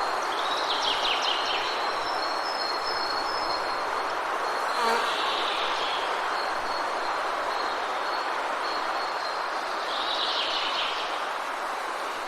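Forest ambience: a steady rushing noise of rain or running water, under a thin, high, steady drone. Birds chirp briefly about a second in and again near the ten-second mark, and there is a single short click near the middle.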